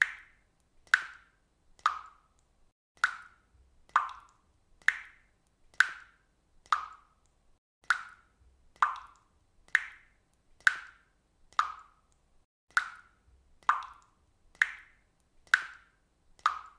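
Water dripping from a faucet in a steady rhythm, about one drop a second, each drop a short plop.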